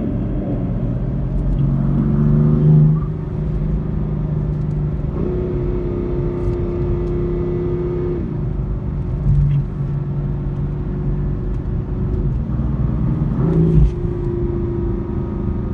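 Car engine and road noise while driving. The engine note steps up about five seconds in, settles back about three seconds later, and briefly rises again near the end.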